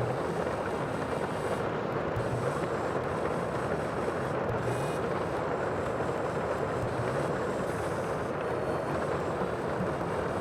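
Steady rushing sea ambience, an even wash of water noise with no distinct wave break.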